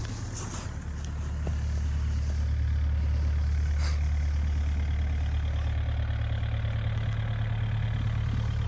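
Engine running steadily with a deep, even hum. There is a light click about four seconds in.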